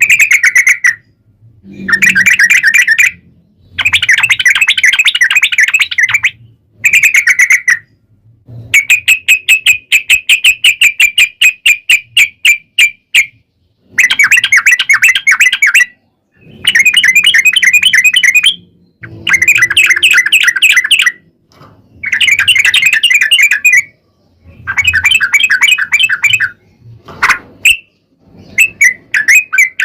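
Yellow-vented bulbul (trucuk) singing its long rolling chatter: a run of rapid, evenly repeated notes in bouts of one to three seconds, with brief pauses between, about a dozen bouts in all.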